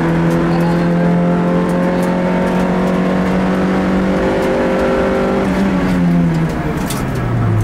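Rally car's engine heard from inside the cabin, held at high revs under load with the pitch creeping slowly upward. Near the end the revs fall in two steps to a much lower note.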